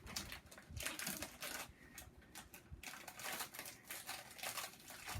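Crinkly plastic snack bag being handled and opened: a run of irregular crackles and rustles.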